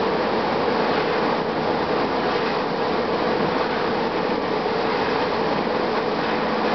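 2007 Gillig Advantage low-floor transit bus running, its Cummins ISM diesel and drivetrain giving a steady mixed noise with a steady whine through it.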